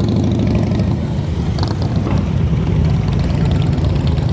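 Motorcycle engine running loud, a steady low rumble throughout.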